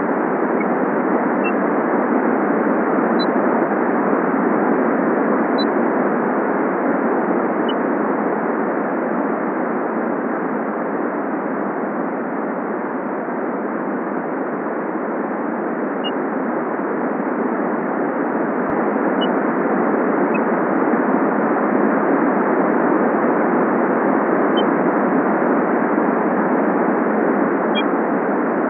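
Steady rain falling, a dull even hiss without sharp treble, with a few faint, very short high chirps now and then.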